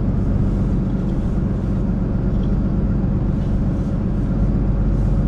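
Scania Super truck's diesel engine running steadily under way, with road noise, heard from inside the cab.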